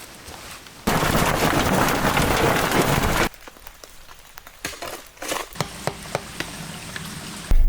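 A loud, steady rain-like rushing noise that starts abruptly about a second in and cuts off suddenly after about two and a half seconds, followed by quieter scattered clicks and crackles.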